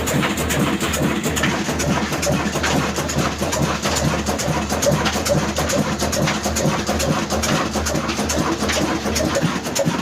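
Old Ruston Hornsby diesel engine running steadily under a flour mill's load, a constant low drone with a dense, rapid clatter over it.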